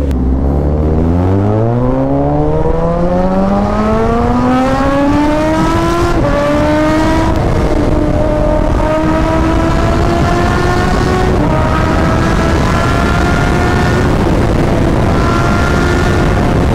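Suzuki GSX-S1000's 999 cc inline-four accelerating hard. The revs climb steadily for about six seconds, then the bike shifts up a few more times, each gear rising more slowly, under heavy wind rush.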